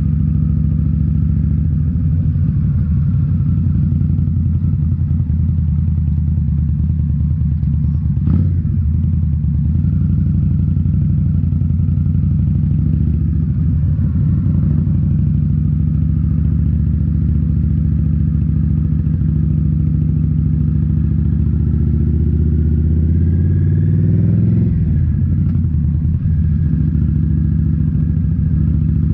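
2018 Indian Scout Bobber's V-twin running through Rinehart slip-on mufflers while riding, with a sharp knock about eight seconds in. Near the end the engine revs up, rising in pitch for a couple of seconds, then drops off sharply.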